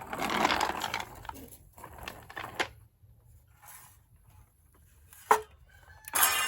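Clattering and handling noise with a few knocks and a sharp click, then a power tool starts up near the end and keeps running, cutting.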